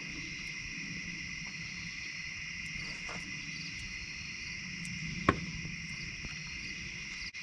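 Steady chorus of night insects, crickets and katydids, trilling without pause, with one sharp click a little past halfway through.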